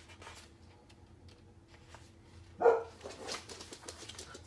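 A black Labrador retriever gives a single short bark a little over halfway through, after a stretch of near quiet.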